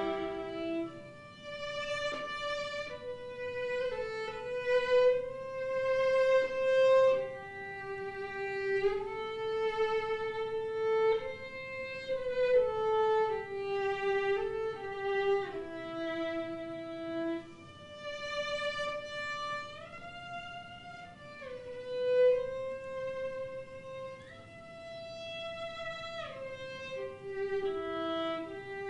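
Violin playing a slow melody of long held notes that slide into one another, with a little vibrato.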